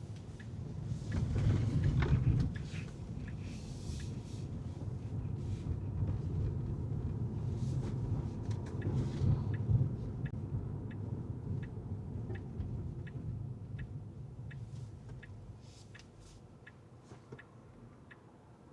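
A car's low road and engine rumble, heard from inside the car, with a turn-signal indicator ticking steadily about one and a half times a second. The rumble swells twice and fades near the end.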